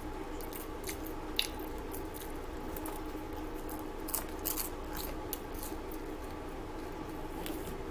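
Close-up eating sounds: chewing and wet mouth clicks and smacks as food is bitten and eaten with the fingers. A few louder clicks stand out, about a second and a half in and around four to five seconds in.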